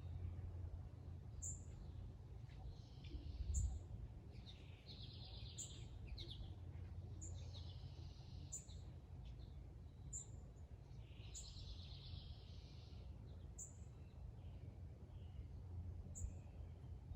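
Wild birds calling outdoors: a short, high chirp repeats about once a second, and several brief trilled song phrases come in between. A faint, steady low rumble runs underneath.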